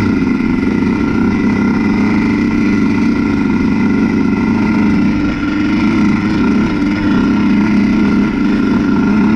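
Honda CR125 dirt bike's 125cc single-cylinder two-stroke engine running steadily under throttle while being ridden, its pitch wavering slightly.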